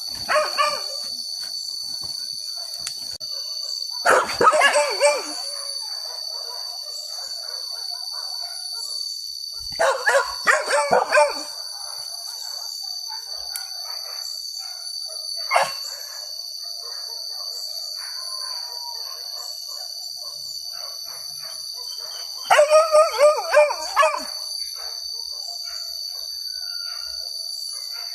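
Hunting dogs barking and baying in clusters of quick barks, about four bouts a few seconds apart, over a steady high-pitched insect drone.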